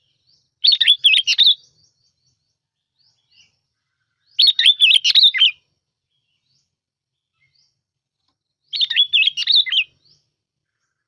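Bông lau bulbul (sooty-headed bulbul) singing: three short phrases of quick notes that rise and fall, each about a second long and about four seconds apart.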